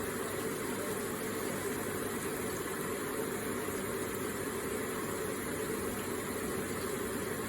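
Electric water feature with water trickling and splashing steadily.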